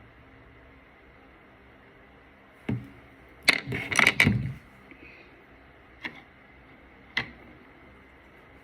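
Sharp clicks and knocks of makeup items being handled: one click, then a quick cluster of several louder clicks lasting about a second, then two more single clicks a second apart.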